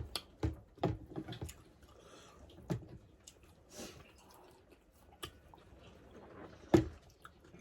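Close-miked mouth sounds of someone eating wheat-flour dhido and dried meat: chewing with scattered wet smacks and clicks, and one sharper smack near the end.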